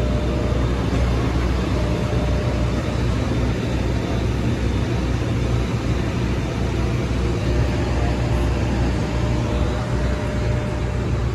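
Steady hum and rush of air inside an Airbus A320 cabin, with a faint constant tone over it.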